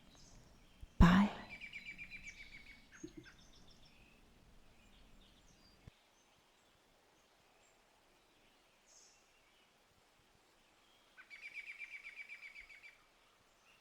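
Songbirds in a forest recording: a fast trill of about ten notes a second right after a brief loud sound about a second in, a few high chirps, then the faint background cuts off suddenly and a second matching trill comes near the end.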